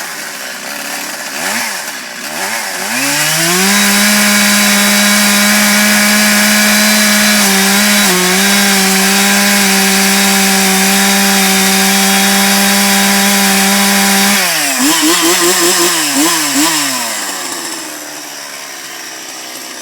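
Two-stroke chainsaw revved up about three seconds in and held at high revs for about ten seconds, dipping briefly near the middle. It then drops off with a few quick throttle blips and settles back to idle.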